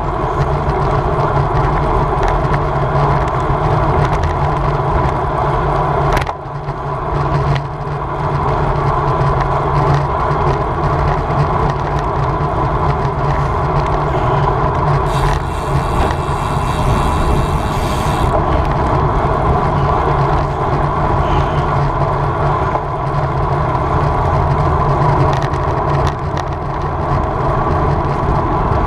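Steady wind noise on the microphone together with tyre and road noise from a road bike riding at race speed. The noise drops briefly about six seconds in, and a higher hiss joins it for a few seconds past the middle.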